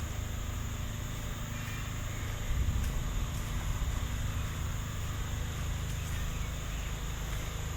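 Steady high-pitched drone of insects in forest, over a low rumble that swells briefly about two and a half seconds in.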